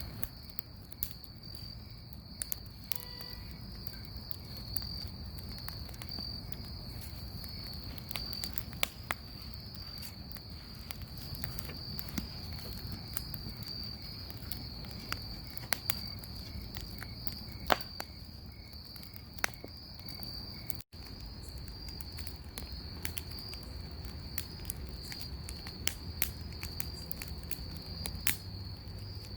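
Bonfire crackling, with sharp pops at irregular intervals and a low rush underneath, over a steady high trill of crickets. The sound cuts out for an instant about two-thirds of the way through.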